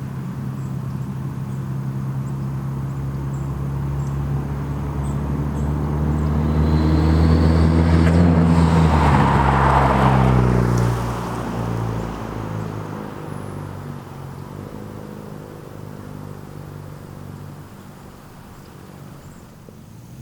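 Hyundai Genesis Coupe 2.0T's turbocharged four-cylinder running through an ISR GT single-exit exhaust, building in loudness to a peak about ten seconds in, then dropping in pitch and fading away.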